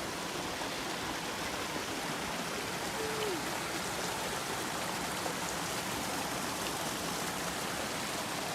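A brook's water rushing steadily.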